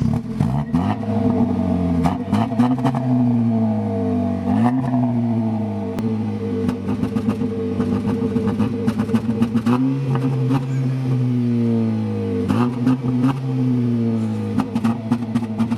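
Car engine breathing through a newly fitted aftermarket exhaust, revved several times: each time the pitch jumps up and then slides back down, with scattered clicks over it.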